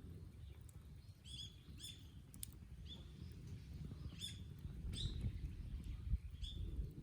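A songbird calling over and over in short, high chirps, roughly one every second, over a low steady rumble.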